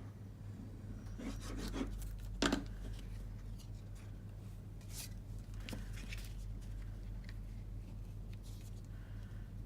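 Cardstock being handled and rubbed on a craft table: scattered short rustles and light taps as a glued piece is pressed into place, over a low steady hum.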